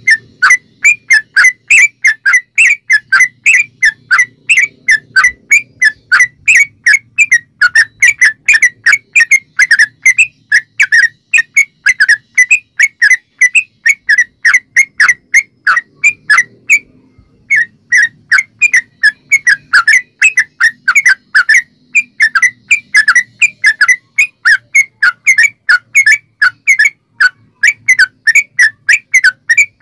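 Yellow-vented bulbul (trucukan) calling in a long, rapid run of short, sharp whistled notes, about three a second, with a brief pause about seventeen seconds in. It is the long-series song used as a lure to get other bulbuls to answer.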